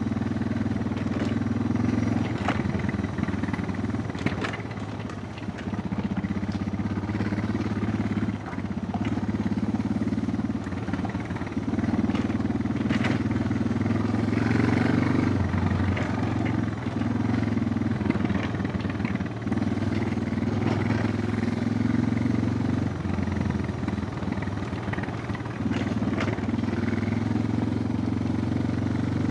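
Suzuki DR650's single-cylinder four-stroke engine running under load as the bike is ridden off road. The throttle eases off and opens again every few seconds, and a few sharp knocks come through.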